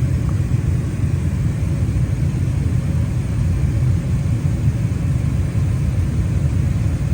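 Carrier gas furnace running on heat, its blower motor and burners giving a steady low rumble.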